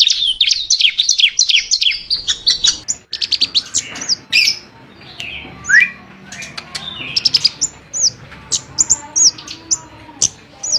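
Flowerpecker (burung cabai) chirping: a fast run of high, sharp chirps, then, from about three seconds in, separate sharp downward notes and short arched whistles.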